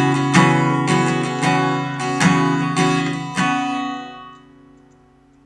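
Acoustic guitar strummed in a steady rhythm of chords. The last strum, about three and a half seconds in, is left to ring and fades away.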